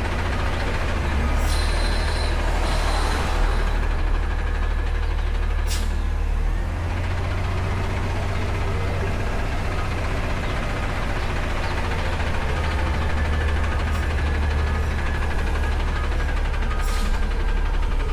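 Front-load garbage truck's diesel engine running steadily with a deep hum, with short hissing bursts about a second and a half in and again near the end, and a sharp click about six seconds in.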